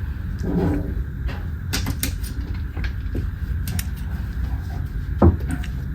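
A few sharp clicks and knocks over a steady low rumble, with one louder thump near the end, like things being handled or a cupboard or door being shut.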